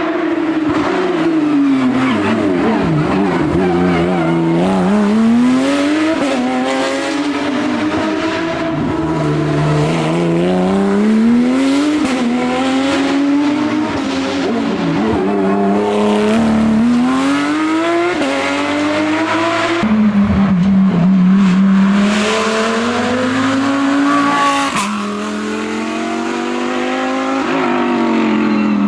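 Racing car engine accelerating hard, its pitch climbing and dropping abruptly at each gear change several times, easing down in between as it slows for corners.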